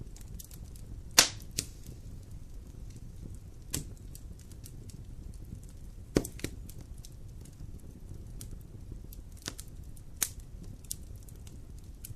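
Campfire burning with a low steady rumble of flame and scattered wood crackles and pops, the loudest pops about a second in and about six seconds in.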